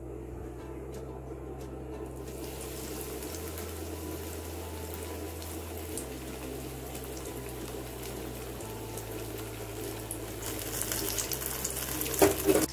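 Breaded cheese sticks deep-frying in hot oil: a steady sizzle that starts about two seconds in and crackles louder near the end.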